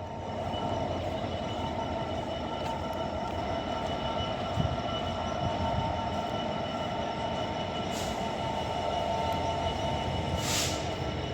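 Class 66 diesel freight locomotive and its train running slowly past or near, a steady drone carrying a few fixed high tones. A short hiss comes near the end.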